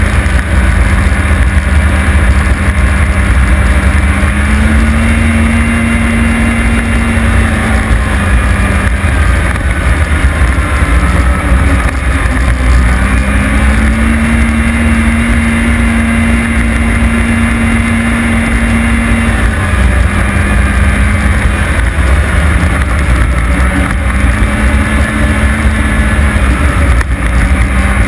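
Car engine running hard at speed, its note rising and falling several times as the driver changes throttle and gears, over a heavy low rumble of wind and road noise.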